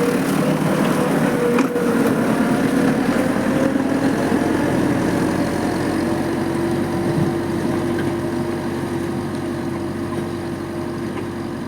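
Tractor engine running steadily, growing gradually quieter.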